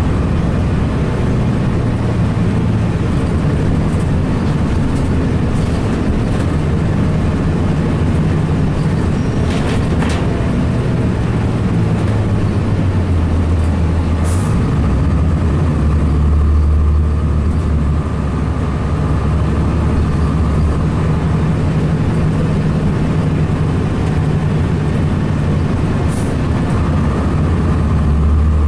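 Cummins ISC inline-six diesel of a 2002 Blue Bird CS transit bus running under way, its engine note dropping about halfway and then rising and falling. Two short hisses, about halfway and near the end.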